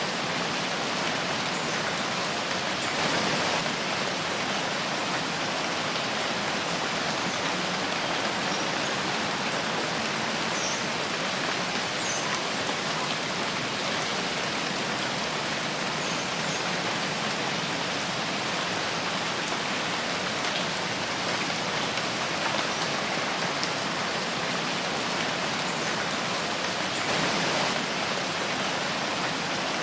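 Steady rain falling in a forest, an even hiss of many drops, swelling slightly about three seconds in and again near the end.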